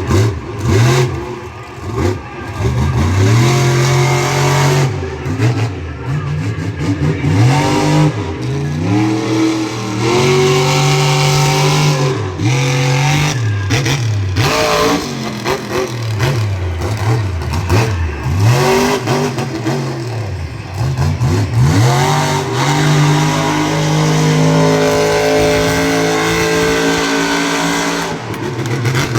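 Monster truck engine revving hard, its pitch climbing and dropping over and over, then held high for several seconds near the end.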